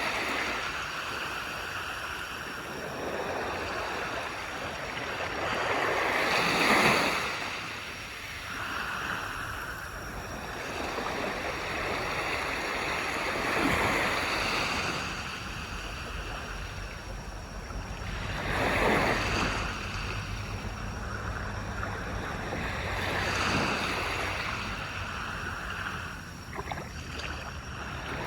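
Waves breaking and washing up the shore, a louder break every five or six seconds, four in all, over a continuous hiss of surf.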